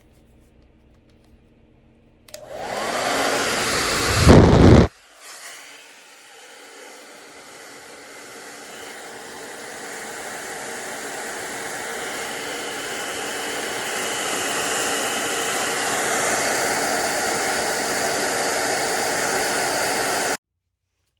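Hair dryer switched on about two seconds in, its motor spinning up with a rising whine over the rush of air, then a loud blast of air hitting the microphone before it drops away suddenly. It then runs again with a steady rush that grows gradually louder and holds, before cutting off abruptly near the end.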